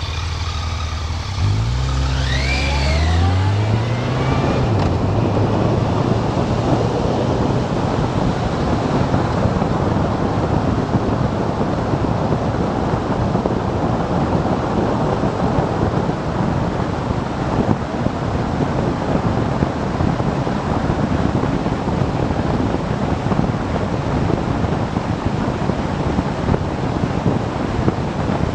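Motorcycle engine pulling away, its note rising with a couple of gear changes in the first few seconds, then a steady rush of wind noise over the engine at cruising speed.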